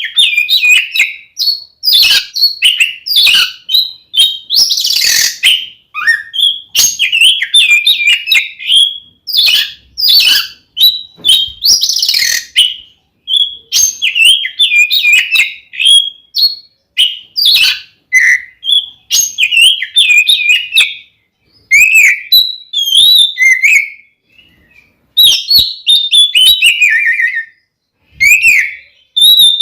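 Oriental magpie-robin (kacer) singing its loud fighting song: a long, fast run of varied whistles mixed with harsh scratchy notes, in quick phrases broken by short pauses near the end.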